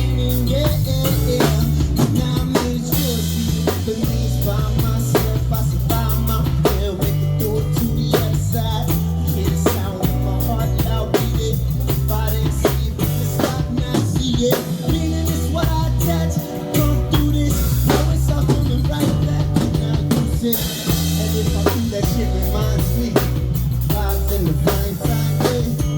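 Live band playing an instrumental passage of a reggae song: drum kit with rimshots and bass drum, a heavy bass line and guitar, with no vocals.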